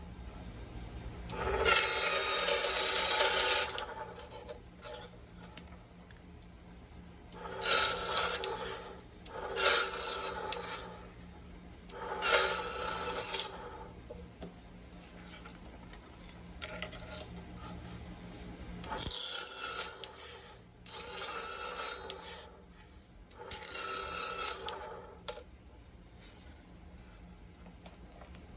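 A cuttlefish bone being cut, in about seven separate rasping bouts of one to two seconds each with short pauses between them; the first bout is the longest.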